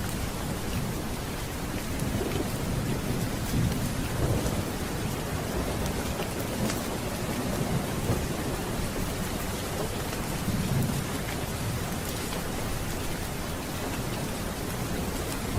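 Steady rain falling with thunder rumbling low in the background, the rumbles swelling a few seconds in and again about two-thirds of the way through.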